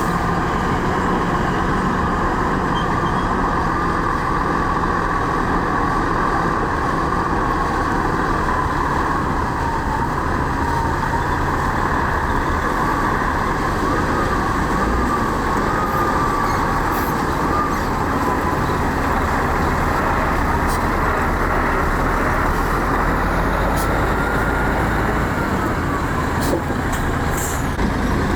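Heavy diesel earthmoving machinery running steadily under load, with a wavering whine above the engine noise.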